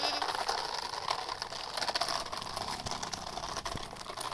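Toy truck pulled along on a rope, its wheels giving a continuous crackly rattle that thins out near the end.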